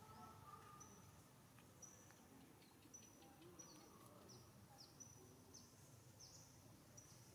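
Faint outdoor ambience with a bird repeating short, high chirps, roughly one or two a second, several ending in a quick downward sweep.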